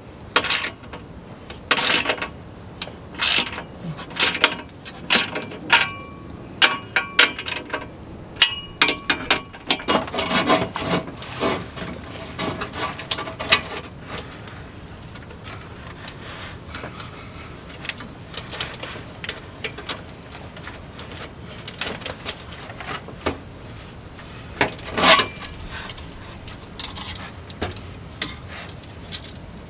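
Hand tools and metal exhaust clamp hardware being worked while a resonator delete pipe's couplers are fitted and tightened: quick clicks and metal clinks, some briefly ringing. The clicking is dense for the first half, then thins out, with one louder knock near the end.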